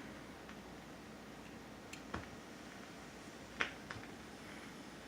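Faint hiss with a few sharp isolated clicks and pops, about one every one and a half to two seconds, the loudest about three and a half seconds in: a record playing on a Pioneer PL-630 direct-drive turntable near its end, with no music.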